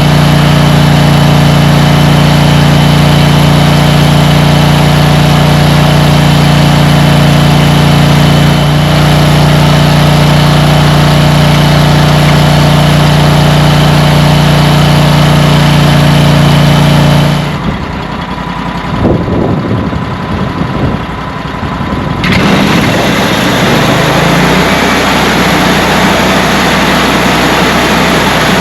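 Sawmill engine running loud and steady at a constant speed. About 17 seconds in the steady note gives way to a quieter, uneven engine and machine noise, which grows louder again a few seconds later.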